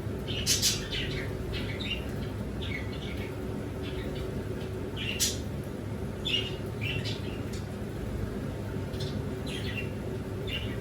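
Pet birds chirping, a dozen or so short calls at irregular intervals, over a steady low hum.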